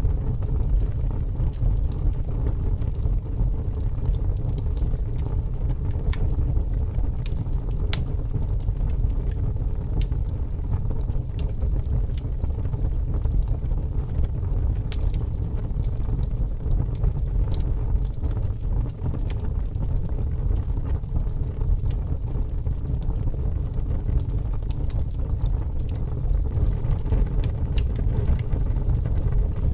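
Wood fire burning with a steady low rumble and scattered crackles and pops.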